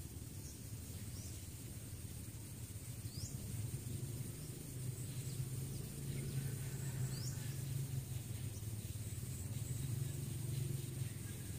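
Outdoor ambience: a few short, high, falling bird chirps over a steady high-pitched insect drone and a low rumble that swells about halfway through.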